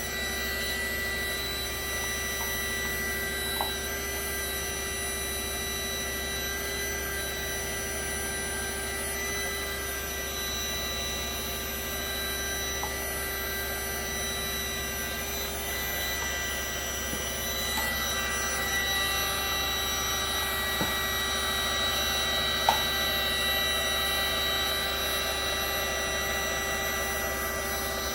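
Small heat-shrink heat gun running steadily, its fan motor giving an even whine with several high tones; it gets a little louder about two-thirds of the way through. A faint tick sounds a few times.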